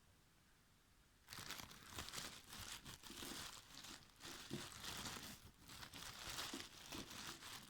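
Edible Mugalzhar chalk being chewed close to the microphone: a dry, crackly crunching and crumbling that starts about a second in and goes on in uneven bursts.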